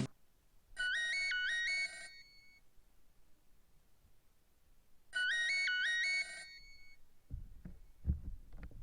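Nokia 3560 polyphonic ringtone: a short, flute-like phrase of quick alternating notes, about a second long, played twice with a pause of about 3 s between. A low buzz with a few clicks comes in near the end.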